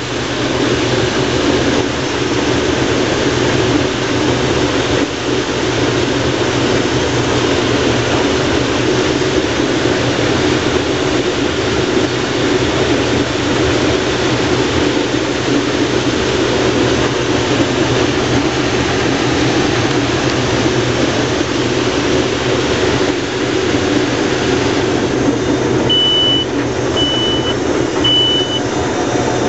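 Case IH Axial-Flow combine running steadily under load while harvesting corn. Near the end, three short high beeps about a second apart.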